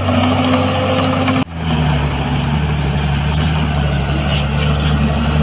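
Heavy diesel engine of earth-moving machinery running steadily. About a second and a half in, the sound cuts out for a split second, and the engine note carries on slightly changed afterward.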